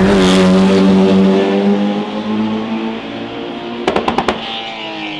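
Racing car engine at high revs, holding a steady note that sags slightly in pitch and fades as the car moves away. A quick cluster of sharp pops comes about four seconds in.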